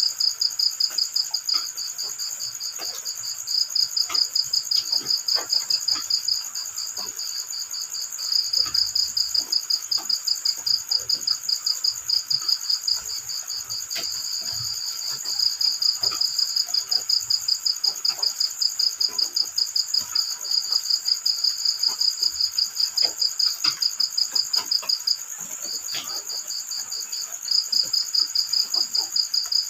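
Crickets chirping in a fast, steady pulsing trill, with stretches of a few seconds that are louder and then softer, over scattered light taps of drizzle.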